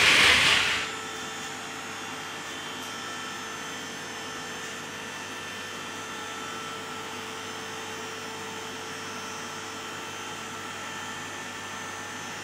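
A short loud hiss, then a steady mechanical hum holding several fixed tones.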